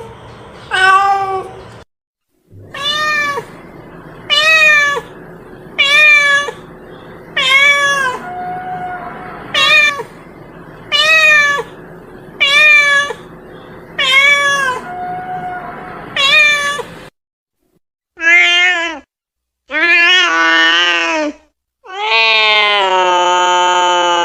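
Domestic cat meowing repeatedly, about ten short rising-and-falling meows roughly one every second and a half. After a short pause come a few longer, drawn-out meows, the last one held for about three seconds.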